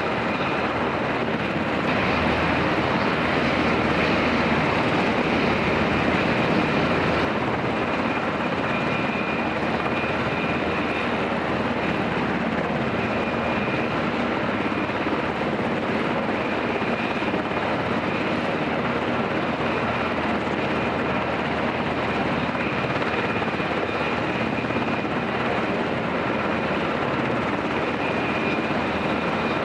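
UH-60 Black Hawk helicopter running, a steady mix of rotor and twin-turboshaft engine noise with a faint high whine.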